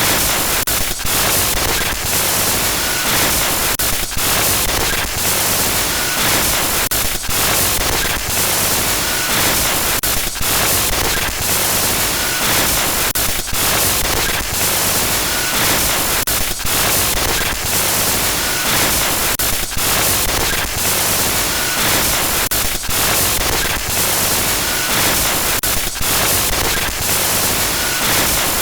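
Loud, harsh electronic static glitch noise: a continuous full-range hiss that drops out for an instant about every second, with faint short high blips every few seconds.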